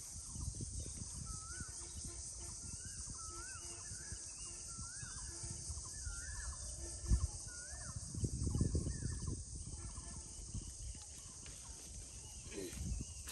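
A bird calling over and over, short rising-and-falling notes about one a second, stopping roughly two-thirds of the way through. A single low thump about halfway, then a spell of low rumbling.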